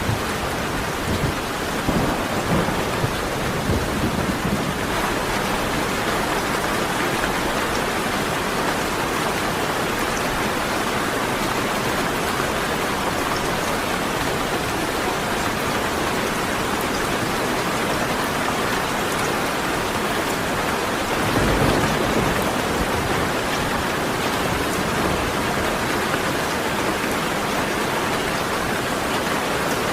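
Steady heavy rain falling, with low rumbles of thunder in the first few seconds and a stronger rumble about three-quarters of the way through.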